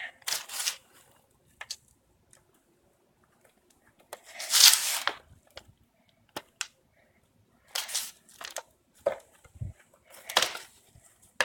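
Handfuls of loose dirt being scooped and packed around a bottle by gloved hands: four short rustling, crunching bursts, the loudest about halfway through, with small clicks between.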